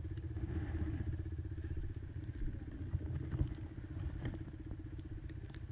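Kymco Maxxer 300 quad engine idling with a steady, even rumble, and a few light clicks over it.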